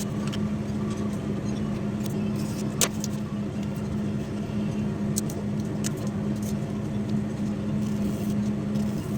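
A steady mechanical hum, like a running motor or fan, with a few scattered light clicks and one sharper click about three seconds in.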